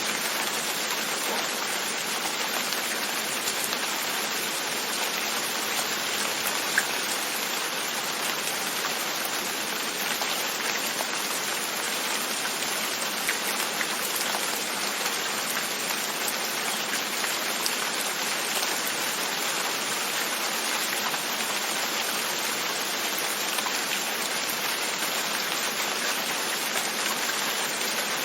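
Steady rain falling on a window, with an occasional single drop ticking a little louder, the clearest about seven seconds in.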